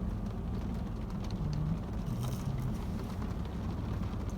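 Steady low rumble inside a parked car, with light rain tapping on the car.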